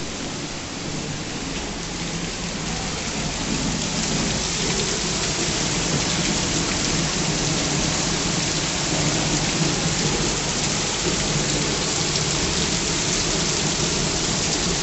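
Rain falling steadily, a dense even hiss that swells a little over the first few seconds.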